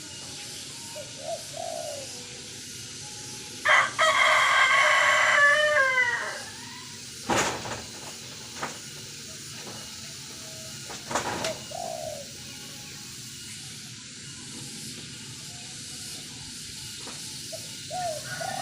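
Spotted dove (tekukur) cooing in short, low, scattered phrases. About four seconds in a rooster crows, a loud call of about two seconds ending in falling notes, and two sharp knocks follow a few seconds apart.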